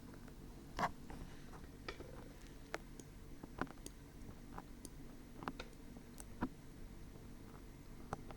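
Dried glue being peeled off the ear of a 3Dio binaural microphone, close up. It makes scattered, irregular small crackles and ticks, the loudest about a second in.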